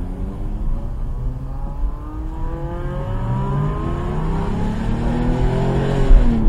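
Porsche GT3's naturally aspirated flat-six, with a Sharkwerks exhaust bypass, accelerating hard, heard inside the cabin: revs climb steadily and the engine gets louder, then it shifts up near the end.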